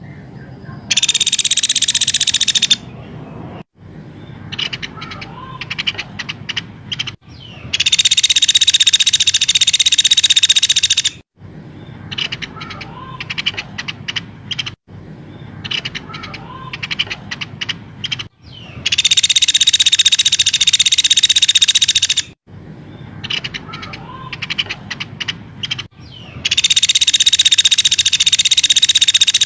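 Looped bird-song training recording of a white-rumped shama. Loud, dense rapid-fire bursts of high notes, each two to four seconds long, alternate with quieter stretches of short choppy notes and brief whistles. The loud bursts start and stop abruptly, as edited into the loop.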